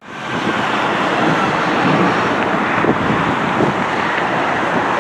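Steady, loud jet engine noise from a heavy airliner, starting abruptly right at the start.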